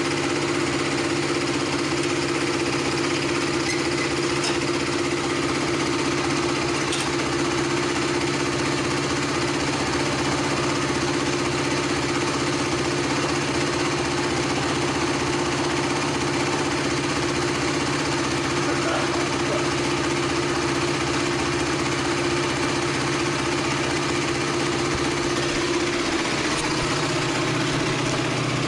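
KTM 390 Duke's single-cylinder engine idling steadily, still cold after a winter lay-up on old fuel. Its idle note shifts slightly near the end.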